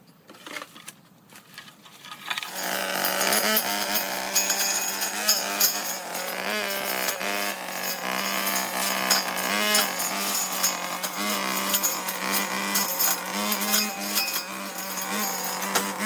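A small motorized power tool starts about two and a half seconds in and runs steadily at high speed, with a constant buzzing pitch and many clicks and rattles over it.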